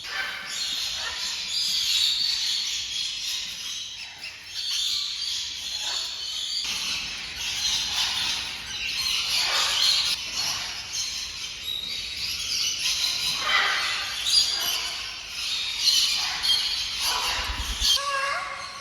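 Many birds chirping and calling at once, a continuous chorus of short overlapping chirps, as in a busy aviary.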